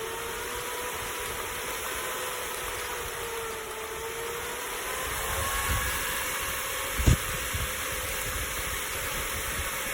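Brushless fan of an air-conditioned work-clothing fan unit running: a steady rush of air with a faint motor whine that wavers a little in pitch, and one knock about seven seconds in.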